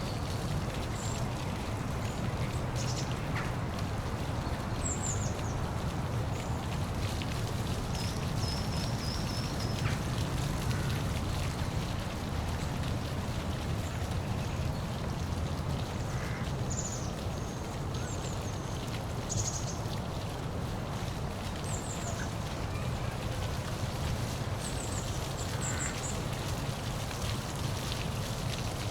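Steady rush of a park waterfall, with short high bird chirps scattered over it.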